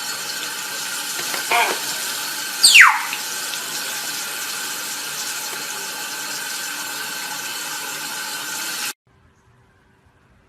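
Tap water running steadily, as for a parrot's shower under the faucet, then stopping abruptly near the end. About three seconds in, a single loud whistle falls steeply in pitch, a parrot's call.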